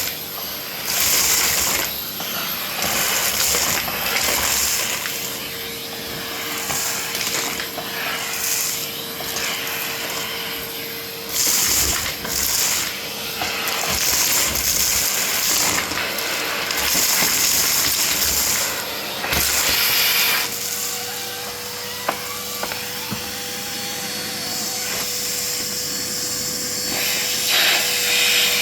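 Vacuum cleaner running with a steady motor whine and a rush of air that swells and fades every second or two.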